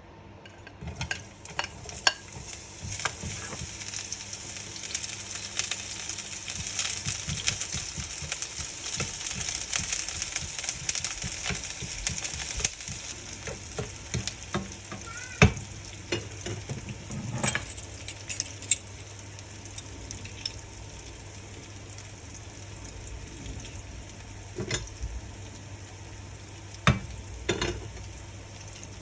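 Food sizzling in hot oil in a pan while being stirred, with a few sharp knocks of the utensil against the pan. The sizzle is loudest over the first dozen seconds, then dies down.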